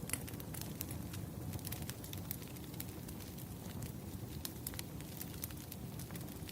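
Burning firewood crackling: irregular sharp pops and snaps over a low steady rumble.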